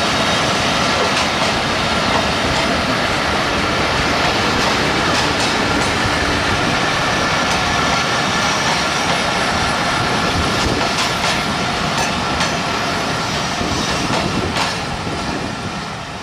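Passenger coaches of a Bangladesh Railway train rolling past: a steady loud rumble of steel wheels on rail, with scattered clicks as the wheels cross rail joints and a faint high steady whine. The noise eases off near the end as the train draws away.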